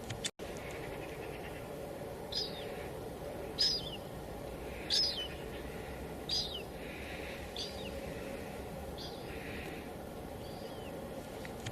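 Light drizzle on a window, a steady hiss, with a bird repeating a short falling call about seven times, one every second and a half or so. The sound drops out briefly just after the start.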